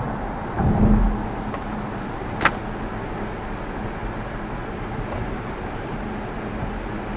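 Steady tyre and road noise inside an Xpeng electric car driving on a wet road, with a low thump about a second in and a single sharp click about two and a half seconds in.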